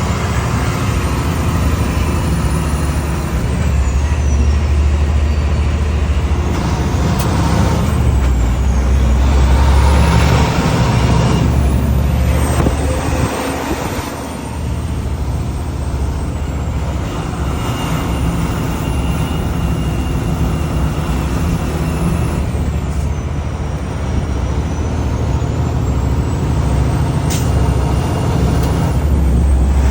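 Heavy tow truck's diesel engine running steadily under load while pulling a loaded dump truck, a continuous low rumble. A stretch of hissing noise rises and falls about ten seconds in.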